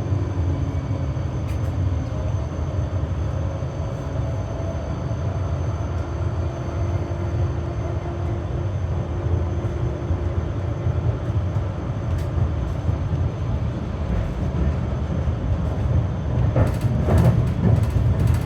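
Berlin GTZO tram running along the track, heard from inside the car: a steady low rumble with faint tones that slowly shift in pitch. A quick run of sharp clacks from the wheels comes near the end.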